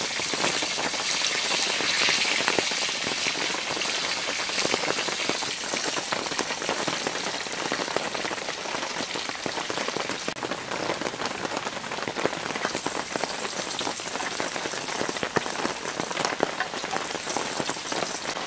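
Steady hiss and patter of rain, mixed with the crackling sizzle of leaves frying in bacon fat in a pan over a campfire.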